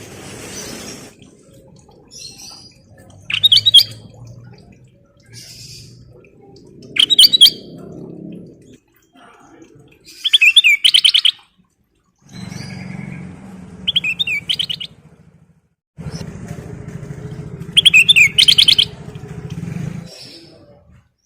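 A kutilang emas bulbul singing five short, loud phrases of quick trilled notes, about one every three to four seconds. A low rumbling noise sits under the later phrases.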